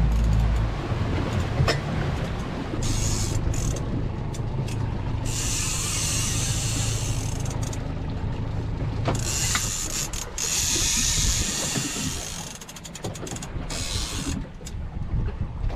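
A fishing reel is wound in against a hooked small Spanish mackerel on a trolling line. Its gears whir and click in spells, with a run of fast ratchet clicks near the end, over the steady low hum of the boat's motor.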